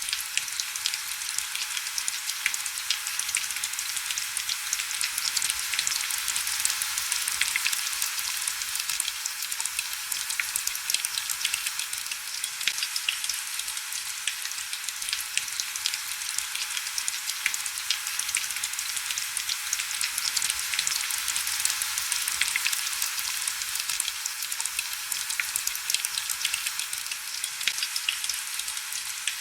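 Heavy rain falling steadily, a dense hiss of countless small drop taps with little low end.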